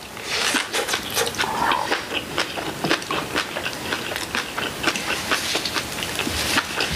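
Close-miked chewing of a mouthful of rice and side dishes: an irregular run of small wet mouth clicks and smacks, several a second.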